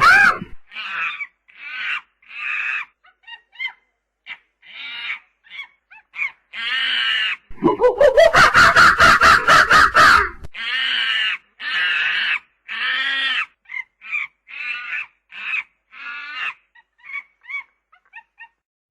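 Monkey calling: a run of short, high-pitched calls, with one longer harsh call from about seven and a half to ten and a half seconds in.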